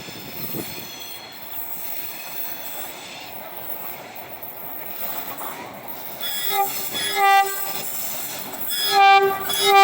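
Freight train rolling past with faint high wheel squeal, then the diesel locomotive's horn sounding several blasts in the last few seconds, the loudest near the end.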